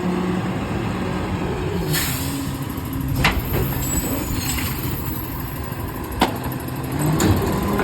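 Garbage truck's diesel engine running steadily, with a short hiss of air about two seconds in, typical of an air brake, and three sharp clanks later on.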